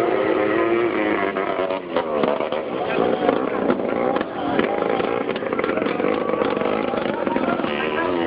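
Drag-racing boat engine running, its pitch swinging up and down with sharp crackles about two seconds in, then holding steadier near the end.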